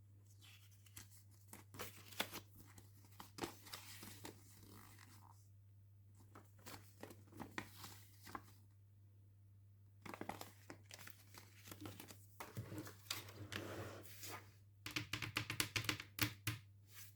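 Toy packaging being torn open and crinkled by hand: irregular tearing and rustling strokes with short pauses, turning into a quick run of crackles near the end.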